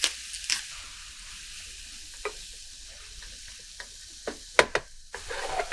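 Chopped onion, carrot, bell pepper and grated zucchini sizzling in a frying pan with a steady hiss while being stirred, with a few sharp clicks and a brief burst of louder stirring near the end.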